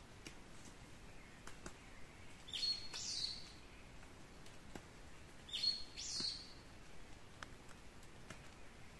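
A songbird singing a short high phrase twice, about three seconds apart. Each phrase is a brief steady whistled note followed by a quick sweep, with faint scattered ticks in between.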